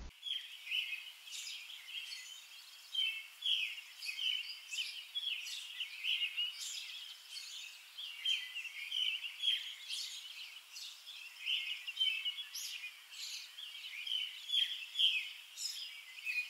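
Songbirds chirping: a steady stream of short, high calls overlapping one another.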